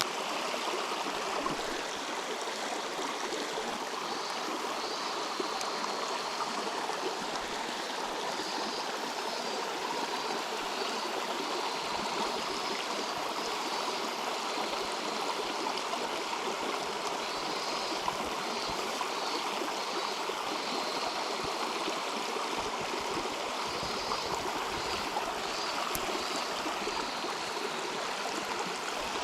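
River water flowing steadily over rocks, a continuous even rushing.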